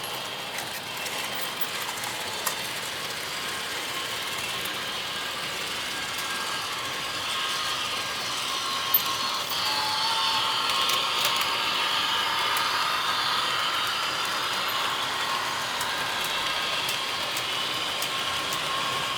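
Passenger train running along the track, its wheels rattling and clicking steadily, growing louder about halfway through.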